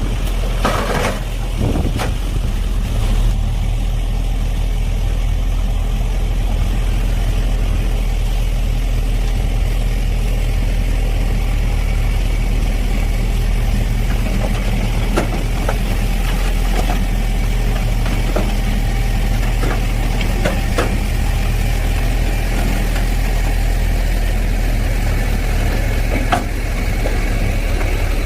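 Heavy diesel earthmoving machinery running steadily, a deep continuous engine rumble with scattered short metallic knocks and clanks.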